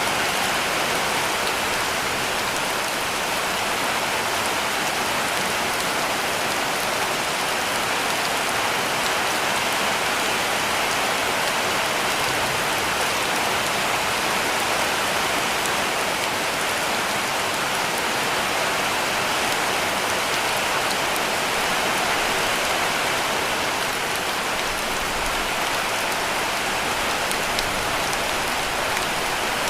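Heavy rain falling steadily on a cabin roof: a dense, even hiss of drops with no lulls.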